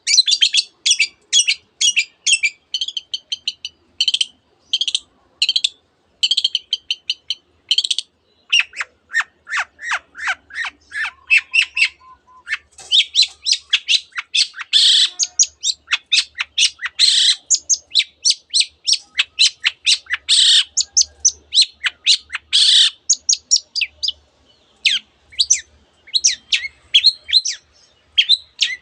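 Long-tailed shrike (cendet) singing hard: fast runs of sharp chirps with steep downward-sweeping notes in places. The song is packed with mimicked phrases of other birds, canary among them.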